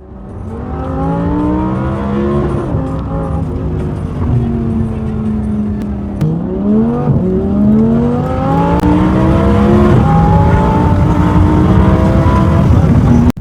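Audi R8's V10 engine with a custom exhaust accelerating, its pitch climbing steadily, with a quick upshift about six seconds in before it climbs again.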